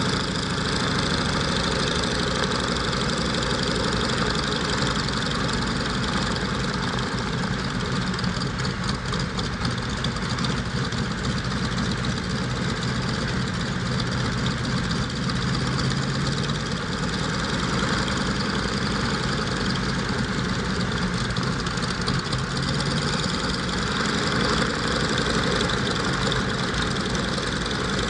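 Alvis Leonides radial piston engine of a Scottish Aviation Twin Pioneer running steadily on a ground run.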